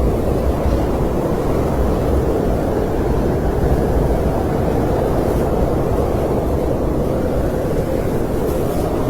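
Snowstorm wind blowing steadily: a dense, low rushing noise with no gusts or breaks.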